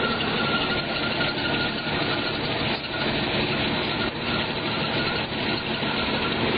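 A 1992 Jeep Cherokee's 4.0-litre inline-six idles steadily. The drive belt is now running with its squeal largely quieted by water squirted on it, a sign that the worn belt itself is the cause of the squeal.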